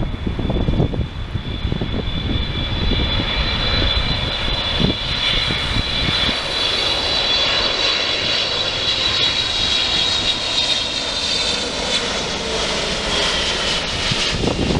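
Wide-body jet airliner passing close by at the runway, its turbofan engines making a steady high whine over a broad roar. The whine slides down in pitch near the end as the jet goes past.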